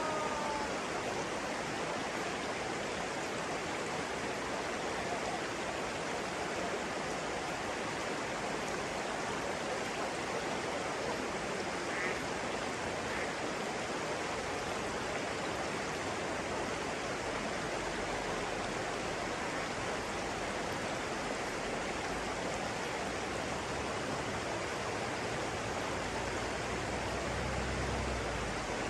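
Steady rushing of flowing stream water, with a couple of faint, brief bird chirps about halfway through.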